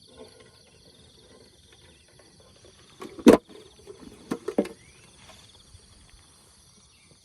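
Steady high-pitched chorus of insects, with a loud knock of handling noise about three seconds in and a few sharper clicks a second later.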